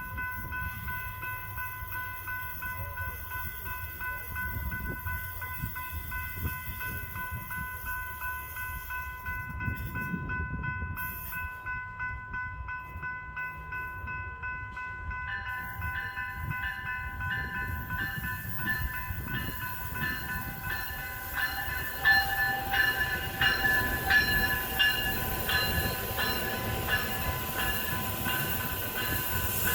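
Silverliner V electric multiple unit train: a steady whine of several held tones over a low rumble. About halfway through, more tones join with a regular clicking rhythm, and the sound grows louder near the end.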